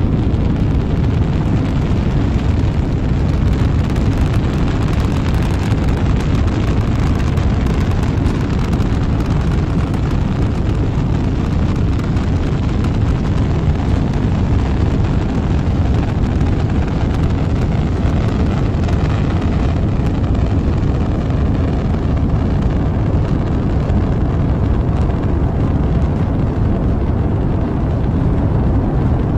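Rocket engines firing: a loud, steady, low rumbling roar of engine noise with no change across the stretch.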